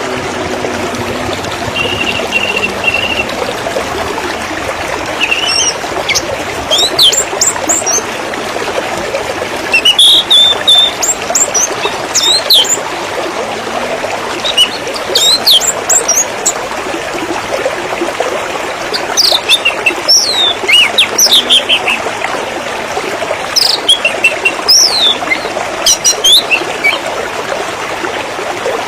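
Water trickling and splashing steadily, with a small bird's short, sharp chirps and whistles coming and going over it, more of them in the second half.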